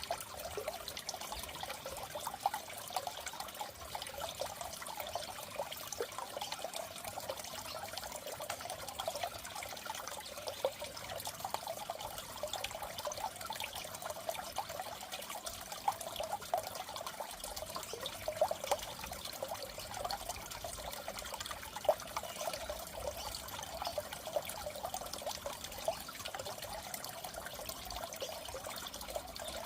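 Water in a goldfish tank trickling and bubbling steadily, with many small pops.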